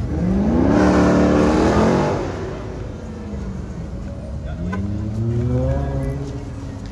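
Car engine accelerating twice: a loud run with the pitch climbing in the first two seconds that then fades away, and a second, quieter rise in pitch about four and a half seconds in.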